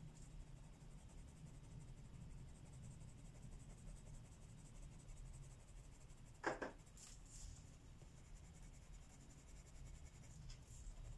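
Faint strokes of colouring on paper, with a single sharp knock about six and a half seconds in, like an implement set down on the table.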